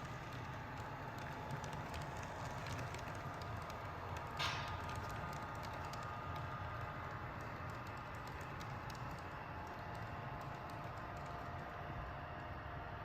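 HO scale model train running on its track: a steady low hum with rapid light clicking of the wheels on the rails, and one brief sharper sound about four seconds in.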